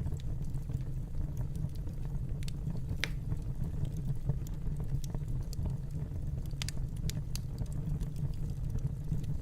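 Fireplace wood fire burning with a steady low rumble and scattered sharp crackles and pops at irregular moments.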